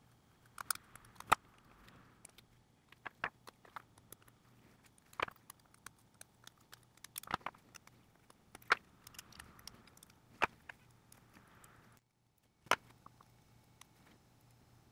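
Scattered small, sharp clicks and taps of tools and parts on a smartphone being worked on by hand, a few every second or two. The sound cuts out completely for a moment near the end.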